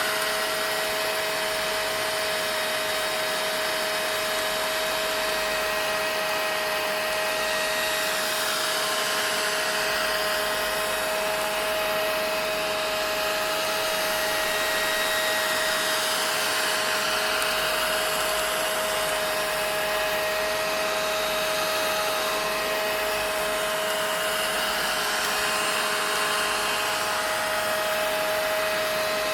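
Vacuum cleaner running steadily and unbroken: a constant whine over the rush of air.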